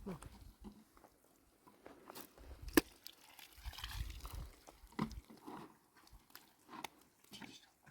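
Scattered knocks and rustles, with one sharp crack nearly three seconds in.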